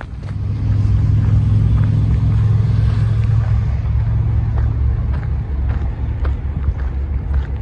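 A motor vehicle passing: a low engine rumble with tyre hiss that swells to about three seconds in and then fades, over the steady ticking of footsteps on the trail.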